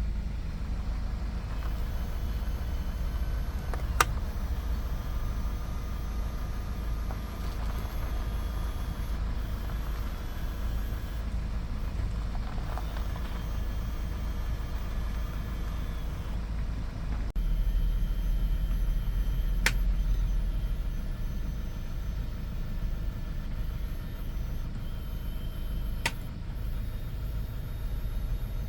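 Hyundai Porter II truck's engine running with a steady low rumble, which gets louder about two-thirds of the way through. Three sharp clicks stand out over it.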